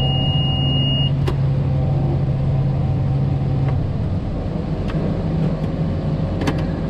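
John Deere tractor engine running steadily, with a high, steady warning beep that cuts off about a second in. The beep sounds each time it unloads, because the tractor reads the unloading as slipping the clutch. A little before four seconds in, the engine's low note changes and drops.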